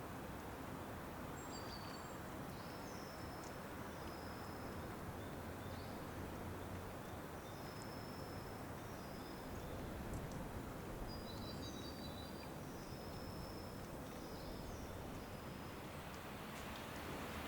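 Birds calling in short, high chirps that come in a few clusters, over a steady background hiss of outdoor ambience.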